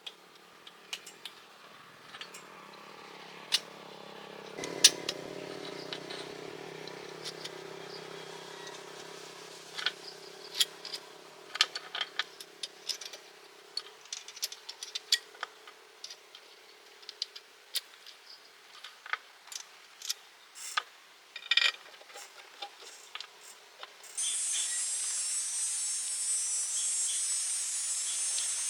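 Workshop sounds: scattered sharp clicks and taps of handled metal, with a steady machine hum through the first half. Near the end a steady high hiss starts suddenly.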